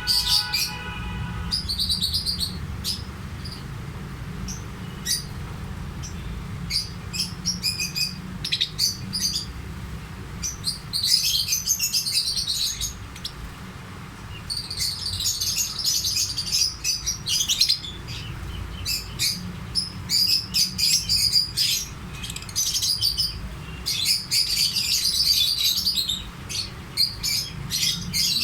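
Lovebirds chirping in rapid, shrill bursts of short calls, busier at times, over a steady low hum.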